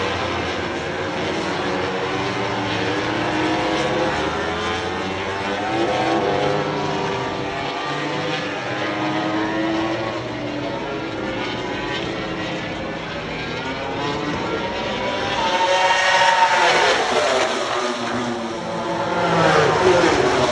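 MotoGP racing motorcycles at full speed, several engine notes overlapping and changing pitch as the bikes shift and pass. Two passes stand out louder, one about three quarters of the way in and one near the end.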